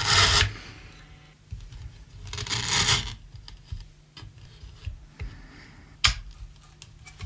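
Guitar pedals and patch cables being handled and re-cabled for a new pedal order: scratchy rustles and small clicks, with one sharp pop about six seconds in, over a steady low hum.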